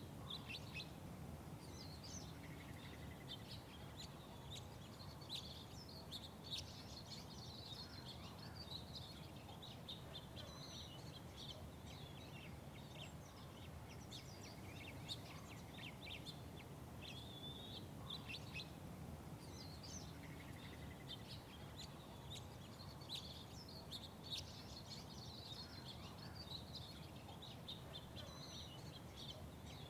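Small songbirds chirping and twittering over and over, many short high calls overlapping, over a steady low background hum.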